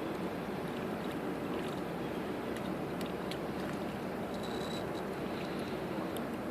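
Steady rushing of river water at a dam outflow, with a few faint high clicks.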